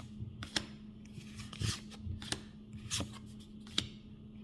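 Pokémon trading cards from a freshly opened booster pack being slid and flipped one at a time: a handful of short card-on-card strokes, roughly one every second, over a faint steady hum.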